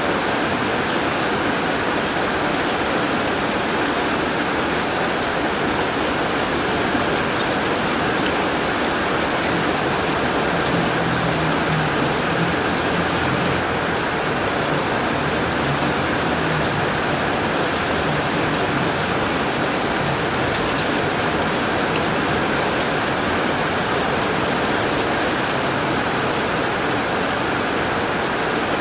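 Heavy rain falling steadily on a tin roof, a dense even hiss with many individual drops ticking on the metal.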